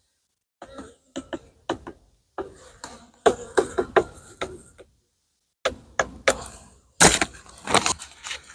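An irregular run of sharp knocks and clatters, several close together and then pauses, typical of wooden beehive boxes and covers being handled and set in place.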